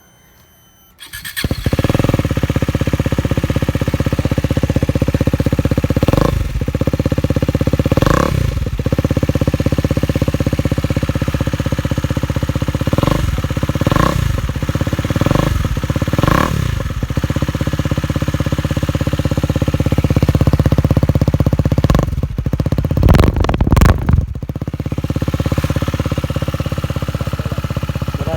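KTM Duke 250's single-cylinder engine running through only the exhaust bend pipe, with no silencer, very loud. It starts about a second in and idles, with short throttle blips every few seconds, a quick run of blips in the middle, and a burst of revs near the end.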